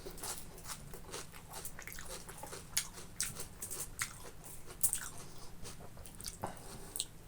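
Close-miked chewing of boiled pork and rice: wet mouth smacks and clicks, a few every second.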